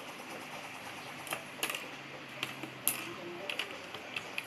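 Plastic Lego pieces being handled and snapped together: a string of about nine sharp, irregular clicks from about a second in.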